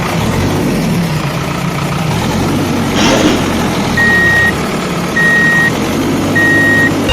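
Truck engine running steadily, with a short hiss about three seconds in, then a reversing alarm beeping three times, each beep about half a second long and a little over a second apart.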